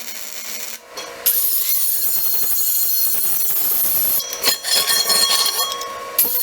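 Angle grinder grinding steel: a lighter running sound at first, then loud, rough abrasive grinding from about a second in, easing off briefly twice.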